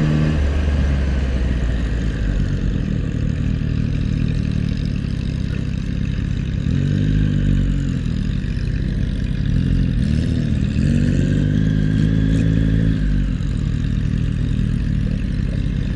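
Motorcycle engine running at low speed, its pitch rising and falling a few times as the throttle is opened and closed, about halfway through and again near the end.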